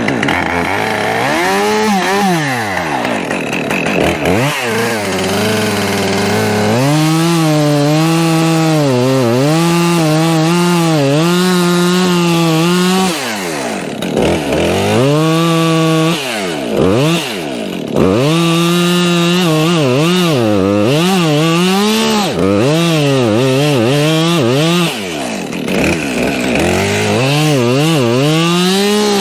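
Two-stroke chainsaw running under load cutting wood. The engine's pitch wavers as it works through the cut and drops sharply and picks back up several times.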